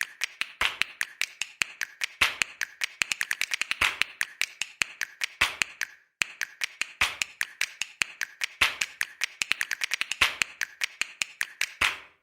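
Rapid series of sharp clicks and taps, with a louder click about every second and a half and a short pause about halfway through.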